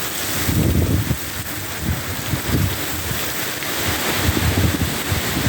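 Strong storm wind gusting hard, buffeting the microphone in irregular low rumbles over a steady hiss.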